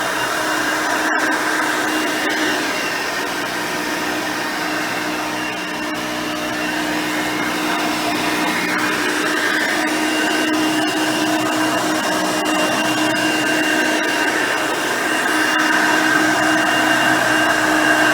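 Hoover Elite High Performance upright vacuum with a 5-amp motor and nine-blade fan running steadily while cleaning carpet, a continuous motor whine with a few steady tones. A momentary gap about a second in.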